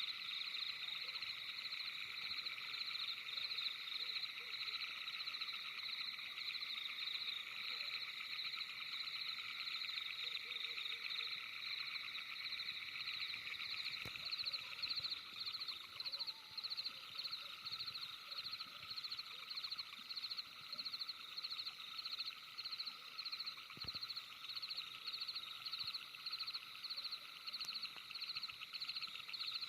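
Night chorus of calling animals, a dense high trill that settles into an even pulse of about three beats a second from about halfway through.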